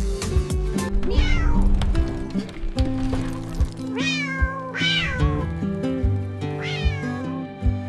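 Domestic cat meowing four times, each call falling in pitch, over background music with a steady drum beat.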